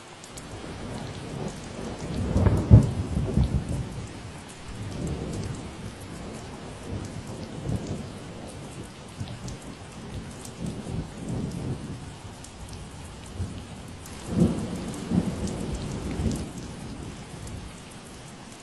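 Steady rain falling, with low thunder rumbling twice: loudest about two to four seconds in and again about fourteen seconds in.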